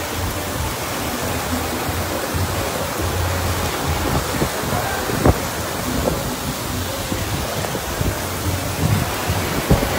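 Torrential rain pouring down in a windstorm: a dense, steady hiss with gusts rumbling on the microphone, and one sharp click about five seconds in.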